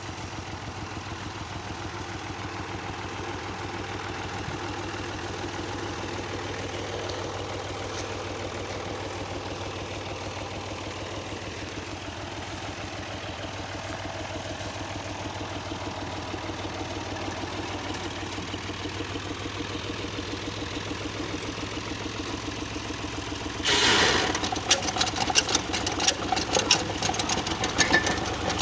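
Universal 445 tractor's diesel engine running steadily with a rhythmic knock. Near the end a louder metallic clattering and rattling sets in suddenly over the engine.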